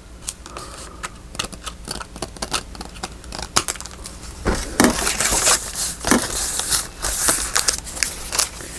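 Scissors snipping through paper in a run of small, quick clicks, then louder paper rustling and crinkling from about four and a half seconds in as the cut-out is handled.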